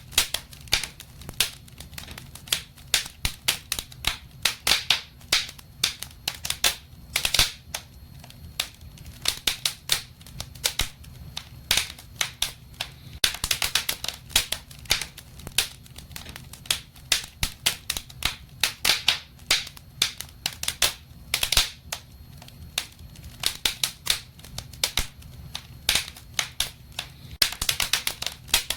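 Wood fire burning in a fireplace: irregular sharp crackles and pops, some in quick clusters, over a low steady rumble of the flames.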